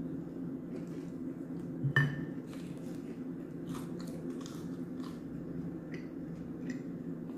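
Close-up chewing and biting of crispy fried chicken: wet mouth clicks and crackles, with one sharp knock about two seconds in, over a steady low hum.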